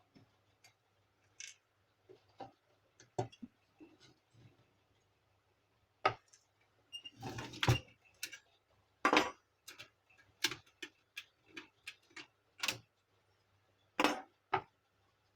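Irregular clicks, taps and clatter of plastic parts and tools being handled while a Canon imageCLASS MF4750 laser printer is taken apart, with a quick run of clatter about halfway through.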